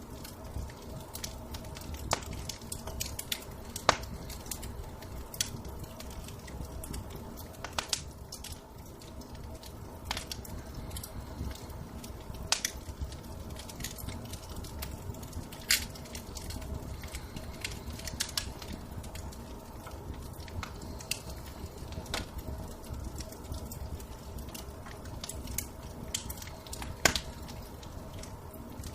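Wood fire crackling in a fireplace: irregular sharp pops and snaps over a low steady rumble, with the loudest pops about four seconds in and near the end.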